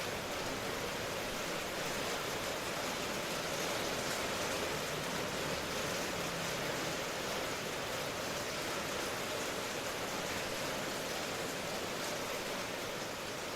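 Steady rain: a dense, even hiss of falling rain that does not change.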